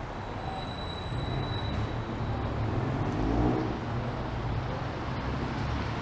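City street traffic: cars passing with a steady low rumble, and a thin high whine in the first couple of seconds.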